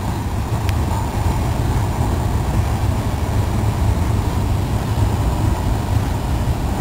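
Freight train of tank cars rolling past, a steady low rumble.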